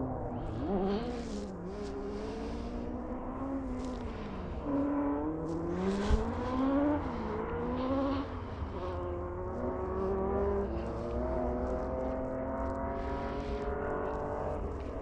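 Rally car engine heard from on board, its revs repeatedly climbing and dropping through gear changes, with short hissing bursts of gravel spray and stones against the car. A sharp knock comes about six seconds in.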